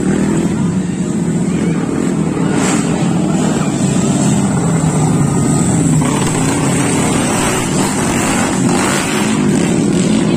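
Racing motorcycle engines running hard in a steady, loud continuous sound.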